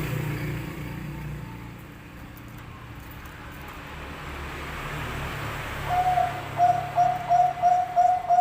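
Zebra dove (Bangkok perkutut) song beginning about six seconds in: one held clear note, then a quick run of even staccato coos at about three a second. A low rumbling background noise comes before it.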